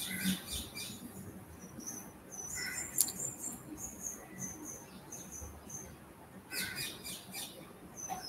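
Faint high chirping of a small bird: quick twitters at the start, a run of short chirps about twice a second in the middle, and more twittering near the end. One sharp click about three seconds in.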